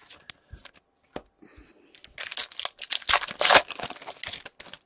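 A plastic wrapper on a pack of 2017-18 Series 1 hockey cards being torn open and crinkled. A few light clicks and handling noises come first, then a dense crackle of tearing and crumpling for about two and a half seconds.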